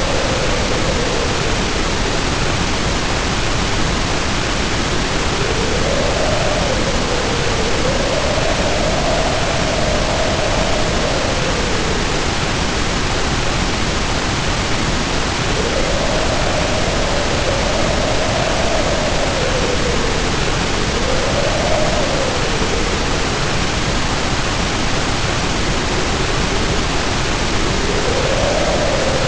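Heavy rain pouring down as a steady, dense hiss, with wind howling over it in a moaning tone that rises and falls in slow swells. The howl fades out twice and comes back.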